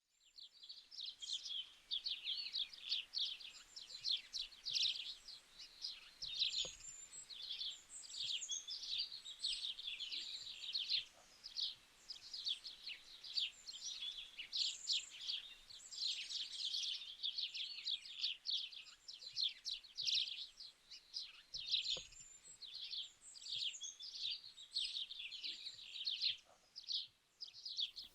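Birds singing, a dense unbroken chorus of quick chirps and trills.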